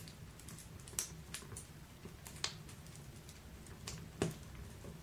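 Wood fire crackling in a fireplace: scattered sharp pops, about one a second, over a faint steady background.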